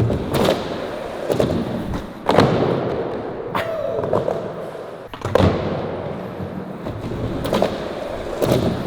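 A skateboard being popped and landing on flat ground during kickflip attempts: several sharp knocks of the tail and deck hitting the ground, with the wheels rolling between them.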